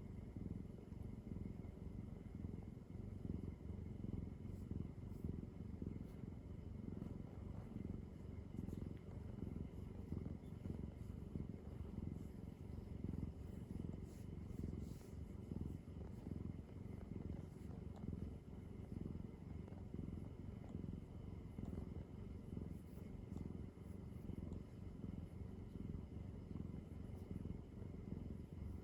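Domestic cat purring steadily, a low rhythmic rumble of in-and-out breaths.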